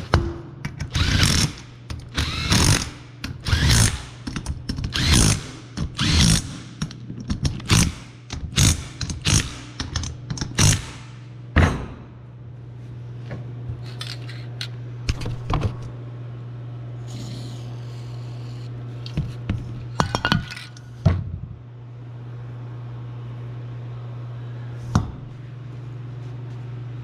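Metal knocks and clacks from a golf-cart drive clutch being worked by hand, coming about once a second for the first twelve seconds, then a few scattered clicks over a steady low hum.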